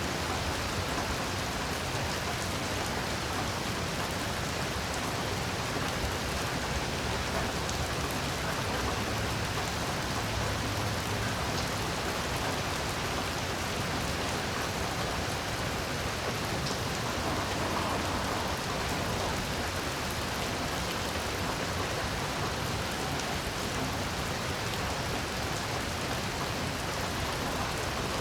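Steady heavy rain falling, an even unbroken hiss of rain on surfaces with no thunder.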